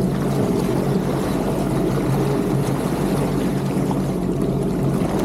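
Jet ski engine running at a steady speed over a constant rushing noise.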